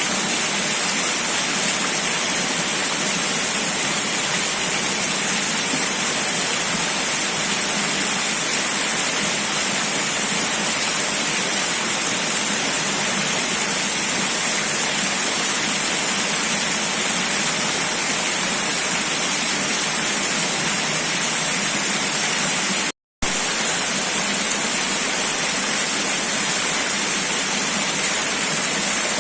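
Steady, unbroken rush of water, loud and even, broken once by a split-second drop to silence a little past two-thirds of the way through.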